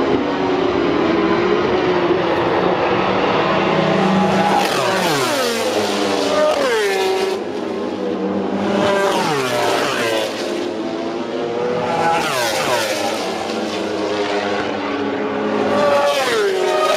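MotoGP racing motorcycles passing one after another at high speed, about five in all. Each four-stroke engine's high-revving note sweeps down in pitch as the bike goes by, over the drone of the other bikes.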